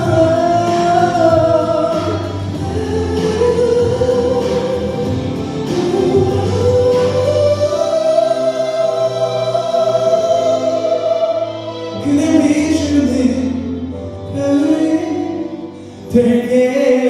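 A male ballad singer holds long, high notes with vibrato over a backing track, the climax at the close of the song. Lower sung phrases follow about twelve seconds in, then the music drops briefly and comes back near the end.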